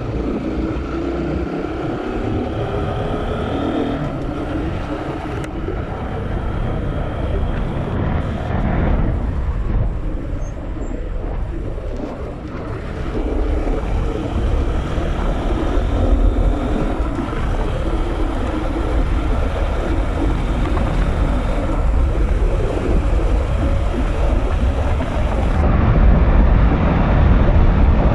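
Bajaj Pulsar NS200's single-cylinder engine running on the move, its pitch rising and falling with the throttle over the first several seconds. After that it is mostly buried under loud wind buffeting on the microphone, which grows louder near the end.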